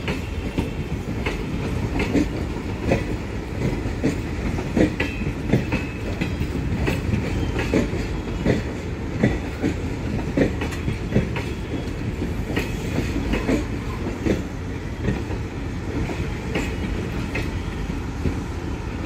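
Indian Railways passenger coaches rolling past on the adjacent track: a continuous low rumble of the rake, with the wheels clacking over rail joints in a quick, uneven rhythm.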